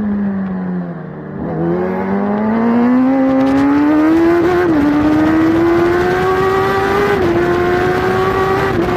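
Kawasaki Superbike's inline-four racing engine, heard onboard. The revs fall as the bike slows, bottom out about a second in, then climb hard under acceleration, with three quick upshifts that each briefly drop the pitch.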